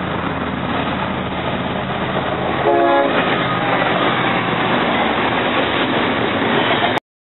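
Freight train passing close by, with a steady rumble and rail noise and a short horn blast about three seconds in. The sound cuts off suddenly near the end.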